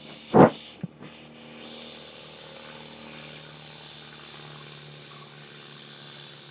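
Steady drone of a small aircraft engine holding an even pitch, with insects buzzing high above it. A loud sharp knock about half a second in, then a smaller click.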